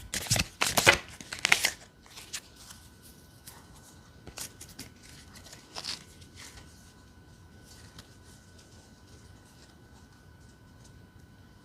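Tarot cards from a 420 Tarot deck being shuffled: a dense run of quick card snaps and slaps for the first couple of seconds, then only a few scattered soft card taps and clicks.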